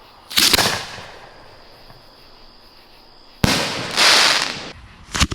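Fireworks going off: three sudden loud bangs, about 0.3 s, 3.4 s and 5.2 s in, each dying away after it, the middle one with the longest tail.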